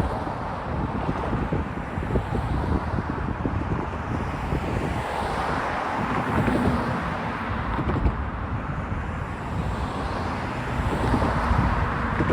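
Intermodal freight train cars rolling past at speed: a steady rumble and clatter of steel wheels on the rails.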